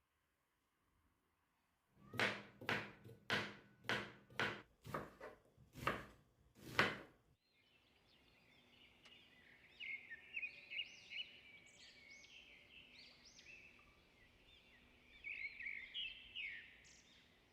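About ten sharp knocks in quick succession, roughly two a second, then birds singing, with many short chirps and trills that go on to the end.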